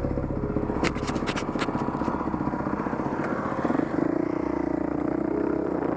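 Dirt bike engine running, with a quick cluster of sharp clicks and clatter about a second in; about three and a half seconds in the engine note steps up and gets stronger as the bike pulls away.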